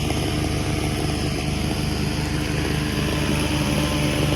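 Petrol lawn mower engine running steadily at an even speed.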